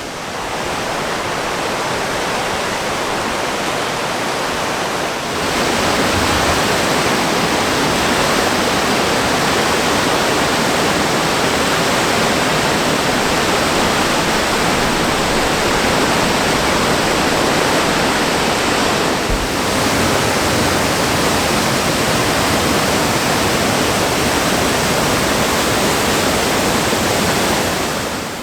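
Pecca Falls in high water, raging: a steady, heavy rush of falling water. It gets louder about five seconds in and dips briefly about two-thirds of the way through.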